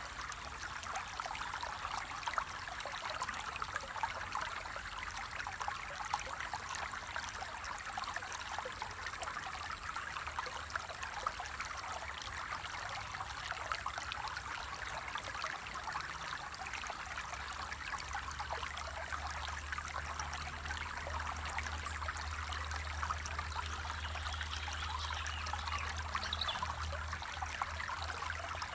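Stream water flowing and trickling steadily, a constant fine splashing rush. A faint low hum comes in underneath about two-thirds of the way through.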